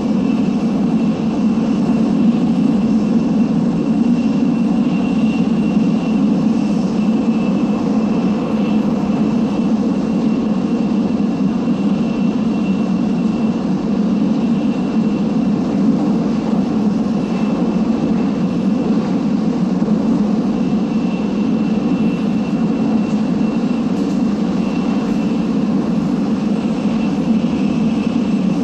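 Tokaido Shinkansen train running, heard from inside the passenger car: a steady low rumble with a faint, steady high tone above it.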